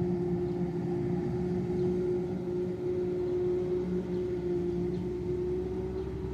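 Heavy farm machinery running steadily at constant engine speed, a continuous drone at one pitch. This is the machinery at work during a corn silage harvest.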